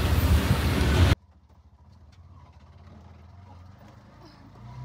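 Wind rushing on the microphone over an auto-rickshaw's running engine during the ride, cutting off suddenly about a second in. After that there is only a faint low hum.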